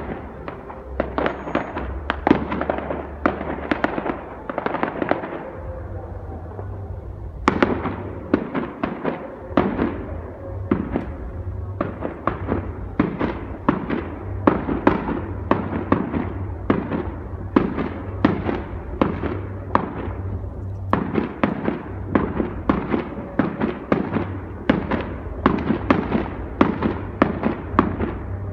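Fireworks going off in a long, continuous run of sharp bangs, about two a second, over a low rumble, with a short lull and then a loud bang about seven seconds in.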